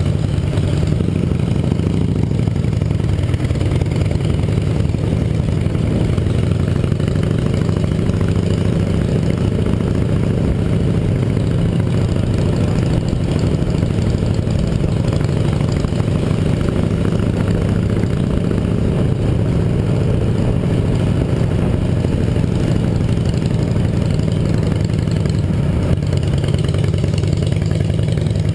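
Yamaha XT 660R's single-cylinder engine running steadily, with no clear revving.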